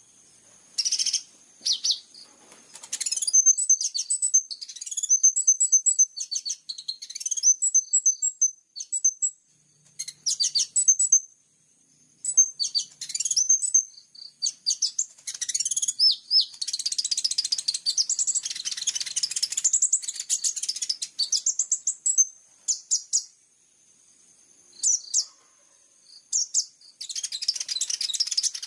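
Small songbird singing high-pitched chirps and rapid trills in irregular bursts, with a longer run of dense trilling in the middle and again near the end; recorded birdsong used as a training track for caged kolibri ninja sunbirds.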